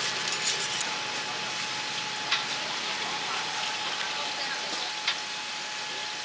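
Steady sizzling hiss of scallion pancakes frying on the griddle, with two sharp clicks of metal tongs against the wire rack, a little under three seconds apart, as the pancakes are set down.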